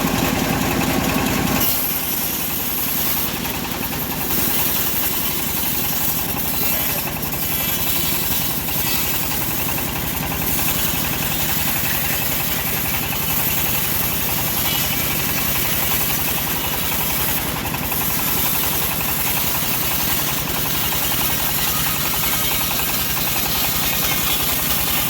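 Engine of a homemade bandsaw mill running steadily as the band blade saws through a teak log. Close to two seconds in, the sound changes and a steady high hiss comes in over the engine's running.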